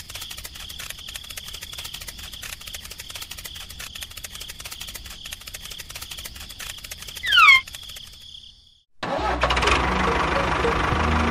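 Crickets chirping steadily, with a short, loud falling whistle about seven seconds in. Near the end a tractor engine sound effect starts and keeps running.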